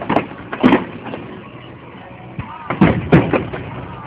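Aerial firework shells bursting in the sky. Two booms come in the first second, then three in quick succession about three seconds in.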